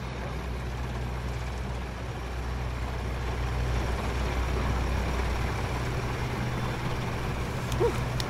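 A steady low engine hum from an idling vehicle, growing a little louder about two seconds in, with a short click near the end.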